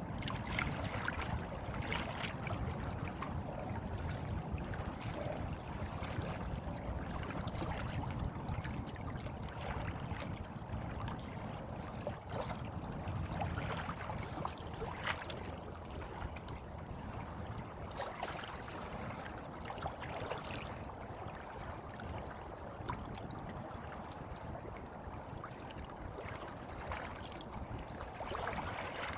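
Water flowing and trickling steadily, like a small stream, with occasional faint splashes.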